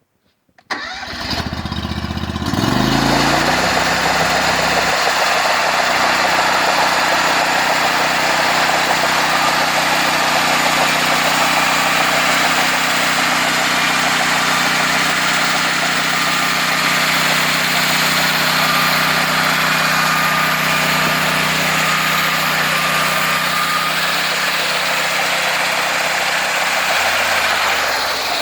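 Homemade sawmill's engine coming on suddenly about a second in and rising in pitch over the next couple of seconds, then running steadily at speed under a loud, steady hiss. Its pitch drops near the end as it slows.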